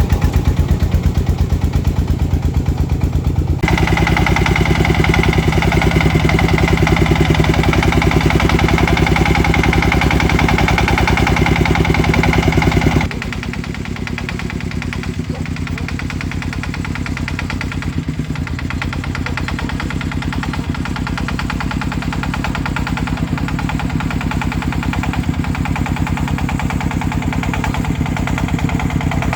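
Single-cylinder diesel engine of a công nông farm truck chugging steadily while driving. It grows louder with a whine about 3 seconds in, then drops back to a quieter run about 13 seconds in.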